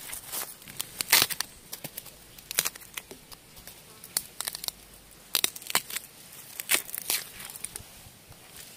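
Bamboo shoots being snapped and pulled from the ground by hand: a run of sharp cracking, tearing snaps at irregular intervals, thinning out near the end.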